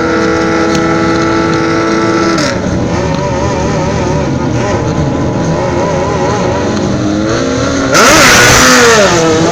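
Drag-racing sport motorcycle engines at the start line, held steady at high revs and then blipped up and down. About eight seconds in comes a much louder full-throttle launch, its pitch dropping at a gear change and climbing again.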